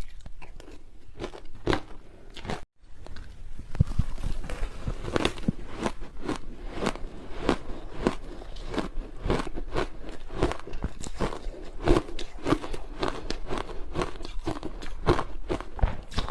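Close-miked crunching of hard ice chunks dusted with matcha powder being bitten and chewed, a rapid run of sharp cracks and crunches. About three seconds in, the sound cuts out for a moment and then resumes.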